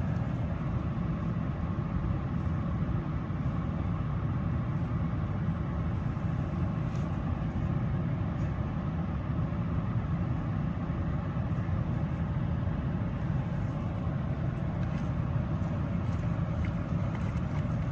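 Steady low rumble of a vehicle, unchanging throughout.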